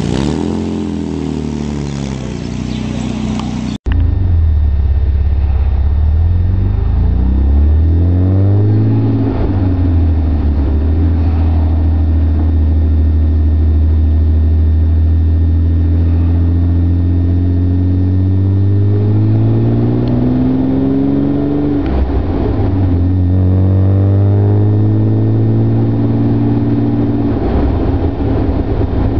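Austin-Healey sports car's engine under way, its pitch climbing as the car accelerates through the gears and dropping at each shift, with steady stretches of cruising between. A brief cut in the sound comes about four seconds in.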